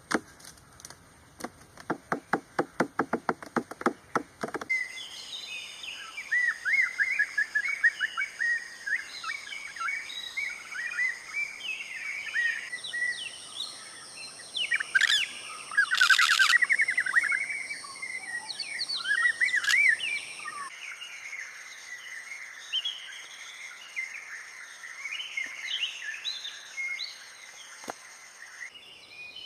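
Rapid knocking, about five knocks a second, for the first four seconds or so. Then many birds chirping and twittering over a steady high-pitched hum.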